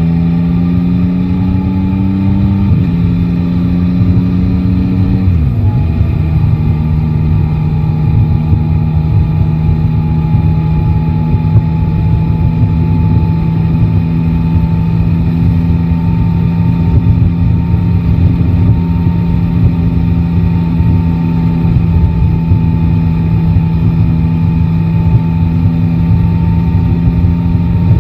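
Yamaha Tracer 9 GT's three-cylinder engine pulling away, its pitch rising, then dropping at an upshift about three seconds in and again about five seconds in, before it settles to a steady cruise. Wind and road noise run underneath.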